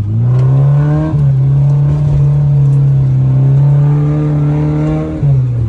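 Car engine pulling under throttle in gear, heard from inside the cabin; the engine note holds a steady pitch, then drops about five seconds in as the throttle eases off.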